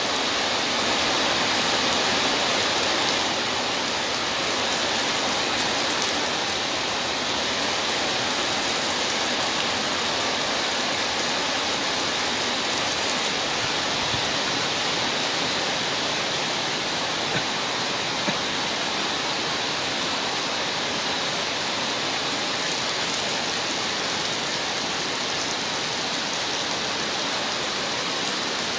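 Heavy rain pouring steadily in a tropical downpour, with two brief taps a little past halfway.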